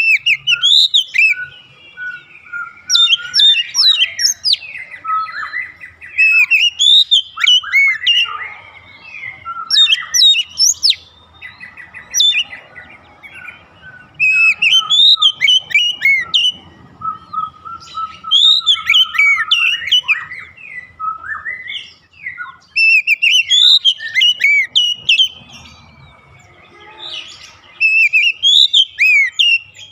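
Oriental magpie-robin (kacer) singing loudly in bursts of varied whistled phrases and quick chirps, a new phrase every two to three seconds.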